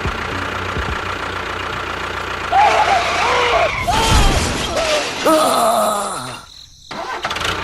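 A small engine running steadily. About two and a half seconds in, a few seconds of wavering, gliding voice-like squeals sound over it.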